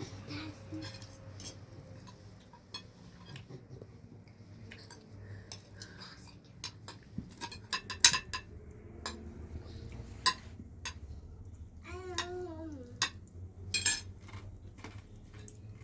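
Metal cutlery and dishes clinking: a string of scattered sharp clinks, several louder ones ringing briefly. A short vocal sound falling in pitch comes about twelve seconds in.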